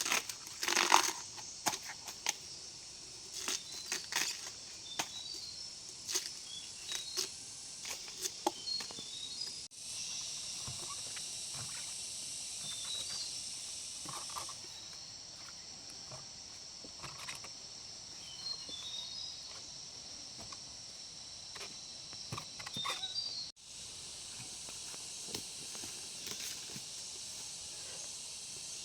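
Outdoor forest ambience: a steady high insect drone with a bird's short descending runs of notes, and scattered sharp clicks and rustles of handling. The sound cuts off abruptly twice.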